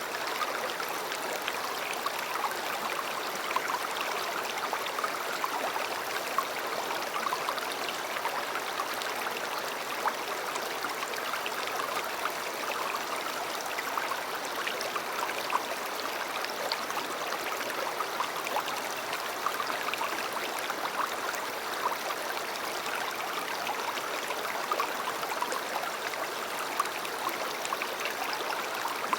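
A river or stream flowing steadily over stones, a continuous rushing babble with many small splashes and gurgles.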